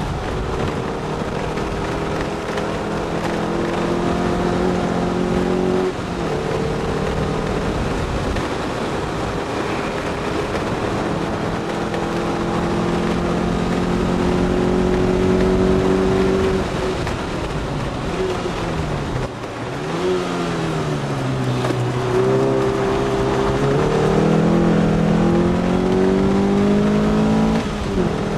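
S1 Lotus Elise's mid-mounted Rover K-series four-cylinder engine, heard from inside the cabin, pulling hard on track. The pitch climbs steadily and drops sharply about six seconds in at an upshift, dips and rises several times around two-thirds of the way through as the car slows and shifts down, then climbs again and drops at another upshift near the end, over steady road and wind noise.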